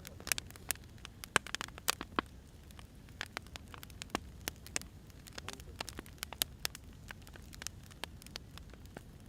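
Firewood logs burning: irregular sharp pops and snaps, several a second, over a low steady rumble.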